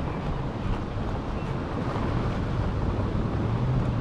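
Wind rushing over the microphone of a chest-mounted action camera on a moving e-bike, with a steady low rumble underneath.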